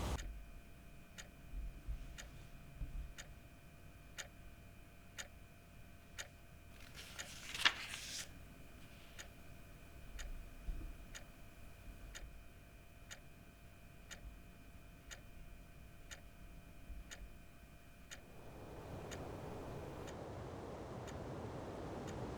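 Clock ticking steadily, about once a second, over faint sustained tones. A brief swell comes about a third of the way in, and a steady hiss rises near the end.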